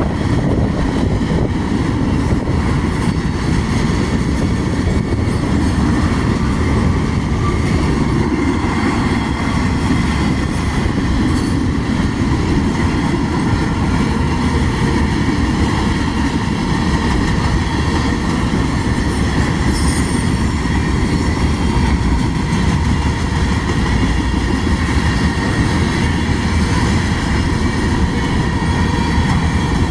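Mixed freight train's cars rolling past close by: a steady, unbroken rumble of steel wheels on the rails, with a faint high ringing above it.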